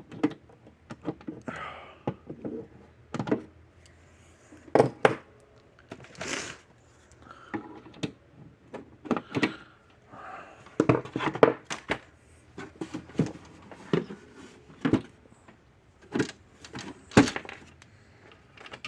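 Irregular clicks, rattles and knocks of small metal screws and a plastic fence-charger case being handled, with short quiet gaps between.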